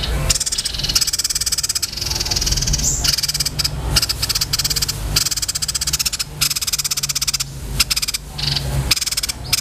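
A mix of small songbirds (grey-cheeked bulbul, cinereous tit, grey-cheeked tit-babbler and tree sparrow) calling over one another in rapid, buzzy, chattering trills, with a steady low hum beneath.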